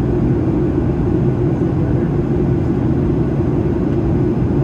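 Steady cabin noise inside a Boeing 737-800 on descent: airflow and engine sound, an even low rumble that does not change.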